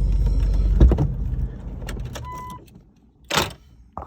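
A 1996 Jeep Grand Cherokee's 5.2 V8 idling with a low rumble, then switched off and running down about a second and a half in. A short electronic beep follows, then a brief rustling burst near the end.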